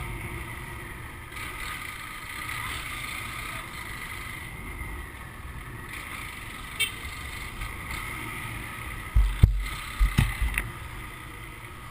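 Honda CG 150 motorcycle on the move: steady engine and road noise under wind rumble on the microphone, with a few heavy wind thumps about nine to ten seconds in.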